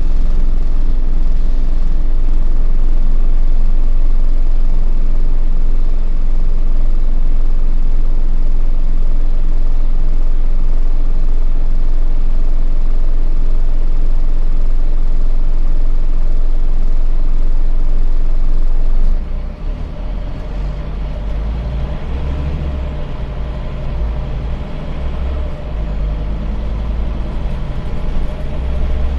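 Scania bus engine running steadily under power, heard from on board; about two-thirds of the way through the sound drops off suddenly and turns lower and rougher, with uneven swells in the low rumble.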